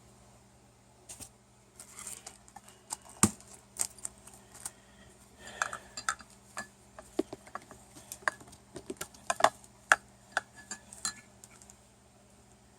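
Irregular light clicks, taps and clinks of a small donut humidifier and its parts being handled, over a faint steady low hum.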